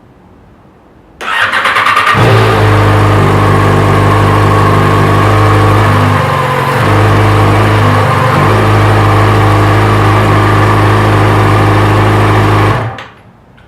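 Yamaha FZ6R's 600 cc inline-four on its factory exhaust, cranked by the electric starter for about a second, catching and idling steadily, then shut off near the end; the idle dips briefly twice midway. It is being run to check the freshly fitted exhaust for leaks, and it has none.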